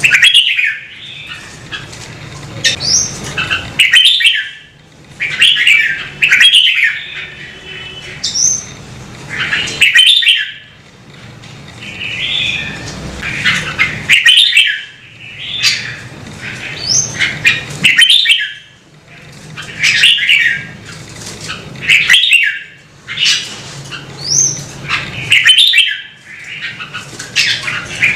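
Red-whiskered bulbul singing: short, loud warbled phrases repeated every second or two, some opening with a quick high rising whistle.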